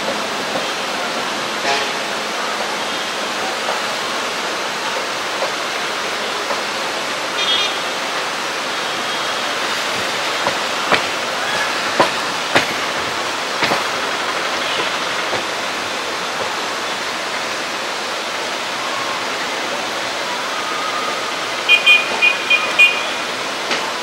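Steady rushing noise of an ICF-coach passenger train running at speed, with scattered clicks and knocks. Four quick, high-pitched chirps come near the end.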